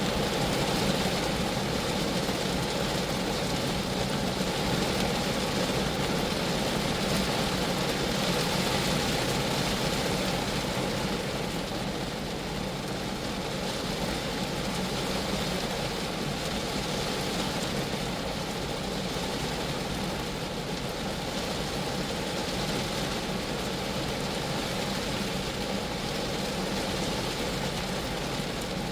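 Steady rain falling on a Geo Metro's body, an even patter and hiss that eases a little about eleven seconds in.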